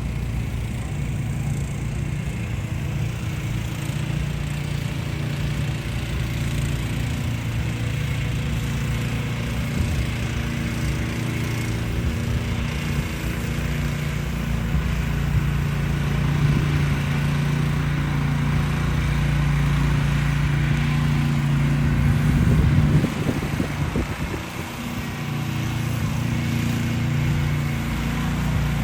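A motor vehicle's engine running steadily close by amid downtown street traffic, a low hum that dips briefly about 24 seconds in.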